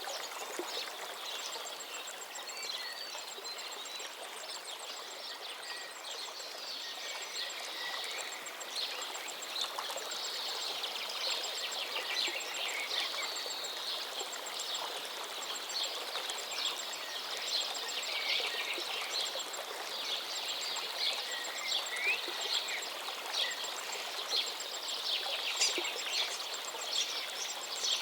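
A river flowing steadily, with many songbirds chirping and singing over it.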